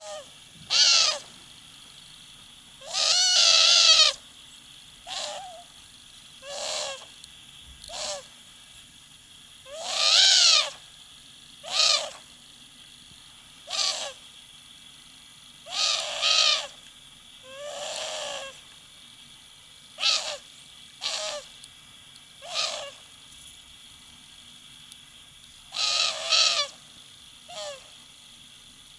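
A pet owl calling over and over in short, wavering pitched calls, some drawn out to about a second, every second or two. The calls are her protest at having her feet handled.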